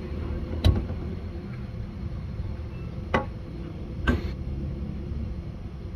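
Three short, sharp knocks, about two-thirds of a second, three seconds and four seconds in, over a steady low rumble.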